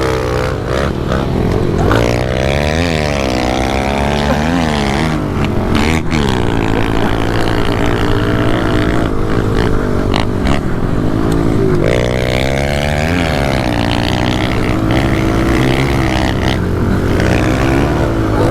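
Several pit bikes racing, their small motorcycle engines revving hard and dropping back again and again under throttle and gear changes, the engine notes overlapping.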